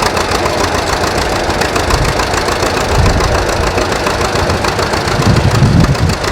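Antique John Deere tractor engine running with a quick, even knocking beat, the distinctive John Deere sound. It swells louder a few times.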